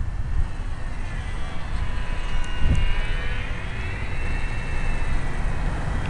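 Ultra-micro RC airplane's small electric motor and propeller flying overhead: a thin high whine that wavers up and down in pitch as it flies, over wind rumbling on the microphone.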